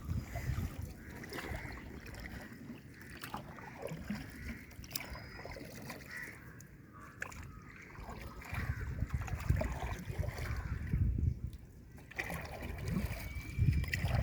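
Water splashing and trickling around a small hand-propelled boat crossing the water, with gusts of low rumble in the second half.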